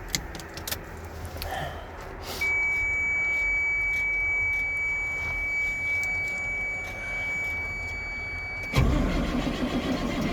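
Keys clicking at the ignition, then a steady high-pitched dash warning buzzer for about six seconds. Near the end the 1999 Chevy C7500's engine catches on a cold start and runs with a loud, low, uneven rumble.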